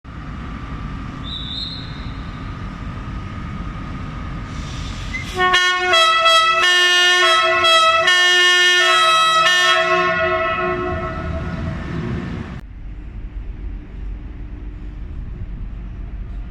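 Thello EuroCity passenger train running past with a loud horn sounded for about four seconds, its notes changing several times. The running rumble carries on after the horn and drops away about three-quarters of the way through.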